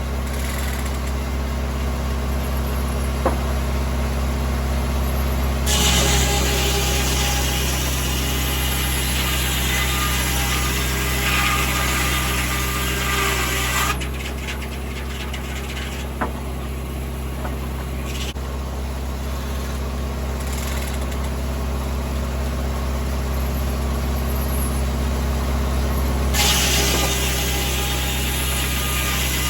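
A tractor engine runs steadily, driving a 1950 Corley circular sawmill. Twice, for about eight seconds each, a wide hissing noise rises over the engine as the circular saw blade cuts through poplar.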